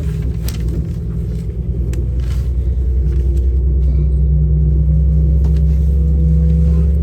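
Diesel passenger train running, heard from inside the carriage: a loud steady low rumble and engine drone, with a faint tone slowly rising and a few light clicks and rattles.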